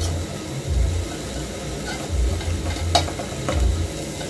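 Eggs with onions and tomatoes sizzling steadily in an aluminium pot while a wooden spoon stirs them, with a couple of sharper scrapes of the spoon against the pot about three seconds in.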